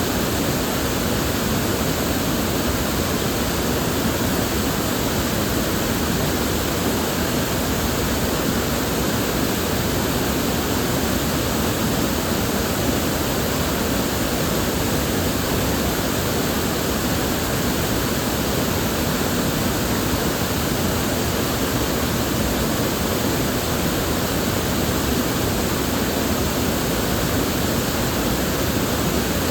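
River water flowing in a steady, unbroken rush, with no changes in level.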